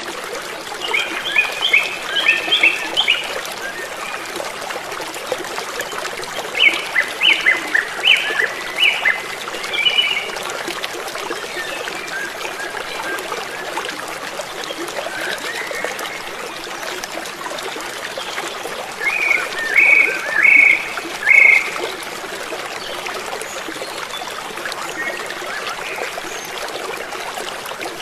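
Steady running water of a stream, trickling. Over it, three short runs of repeated high calls from an animal, each four to six quick notes: near the start, around a third of the way in, and about two-thirds through.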